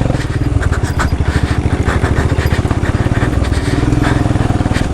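Royal Enfield Himalayan's single-cylinder engine running at low revs, its firing pulses coming in a fast, even stream.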